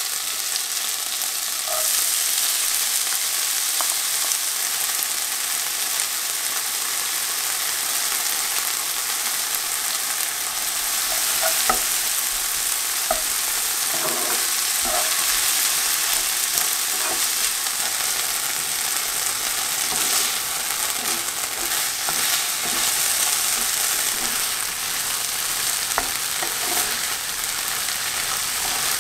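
Food sizzling steadily in a hot frying pan while it is stirred, with a scattering of short knocks from the utensil against the pan.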